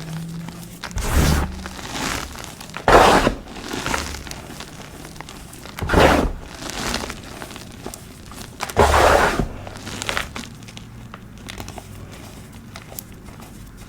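Pasted blocks of dyed gym chalk being crushed by hand, each squeeze giving a dry, crumbly crunch; four big crunches a few seconds apart with smaller crumbles between, thinning out to faint crackles near the end.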